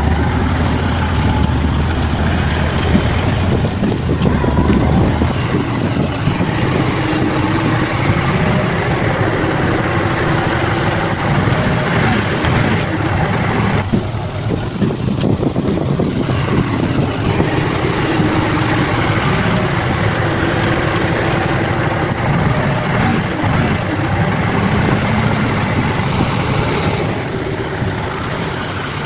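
Bulldozer's diesel engine running under varying load, its pitch rising and falling.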